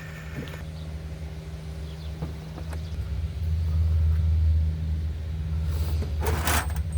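Small two-stroke chainsaw engine running at low speed with a steady low pulsing, getting louder a little over three seconds in. A short hissing rasp comes about six seconds in.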